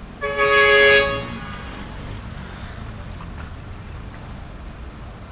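A car horn blares once for about a second, two tones sounding together, over the steady rumble of street traffic.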